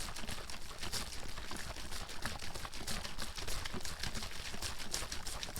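Water bottle being shaken hard, the water sloshing and slapping inside in a rapid, continuous stream of short splashes.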